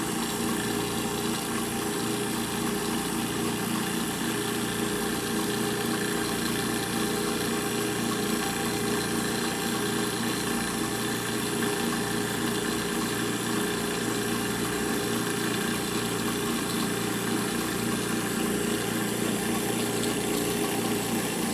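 Milling machine running steadily, its spindle turning an end mill as it feeds across a cut, a constant hum with several steady tones.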